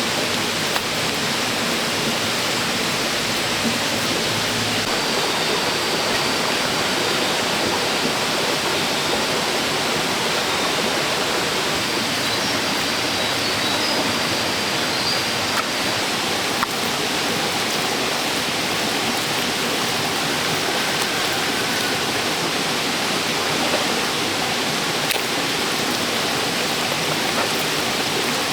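Steady rushing of flowing water, even and unbroken, with a few faint light knocks now and then.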